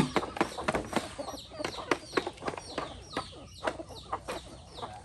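Flock of free-range chickens clucking and calling, with many short sharp taps through it, thicker at first and thinning out.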